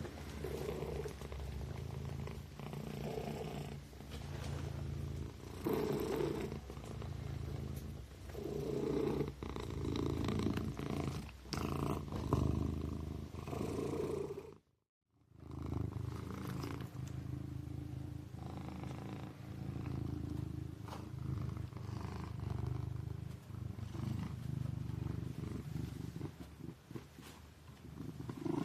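Kitten purring, a steady low drone that swells and eases every second or two with its breathing. The sound cuts out completely for about half a second midway.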